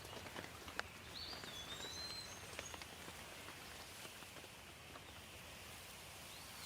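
Light rain falling, with scattered drops ticking close by and one louder drip just under a second in. A small bird chirps with short gliding notes several times, mostly between one and two and a half seconds in, and once more near the end.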